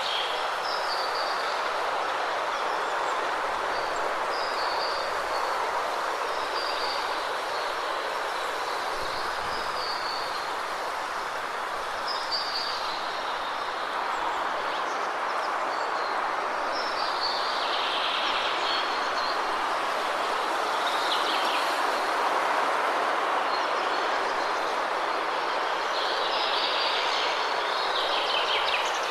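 Waterfall rushing steadily, with small birds chirping over it in short repeated calls every second or two and a few louder flurries of calls near the end.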